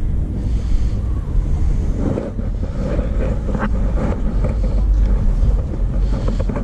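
Wind buffeting the microphone: a steady, loud low rumble with a rushing hiss above it.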